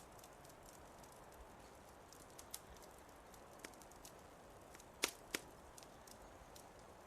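Wood fire in a fireplace crackling softly: a low steady hiss with scattered sharp pops, two louder ones about five seconds in.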